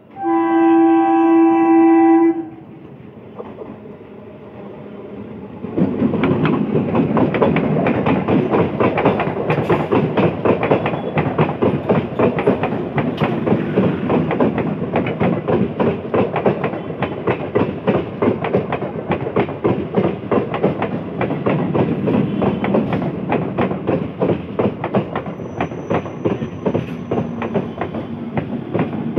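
An electric multiple-unit local train sounds its horn in one steady blast of about two seconds. After a short lull it passes close by from about six seconds in, its wheels clattering rapidly over the rail joints.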